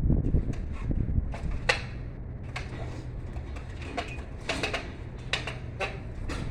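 Scattered light clicks and knocks over a low, steady hum.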